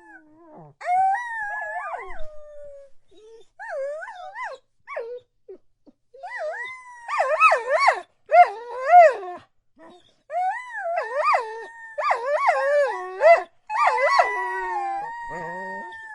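Several dogs howling together, their pitched calls overlapping and wavering up and down in short rising-and-falling yelps, with a long howl that slowly falls in pitch near the end.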